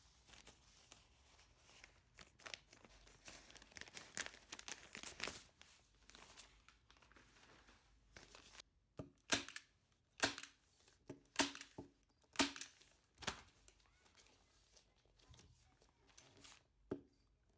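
Plastic, likely the garbage bag set out for the project, being handled: faint crinkling and tearing, then about six sharp snaps roughly a second apart.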